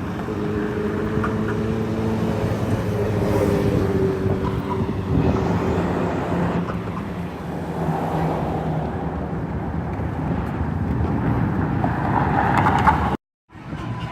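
A motor vehicle engine running steadily, with road or traffic noise around it, cut off abruptly near the end.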